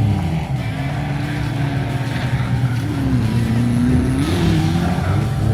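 Motor vehicle engines running, with one engine note dipping in pitch and then climbing again about four seconds in.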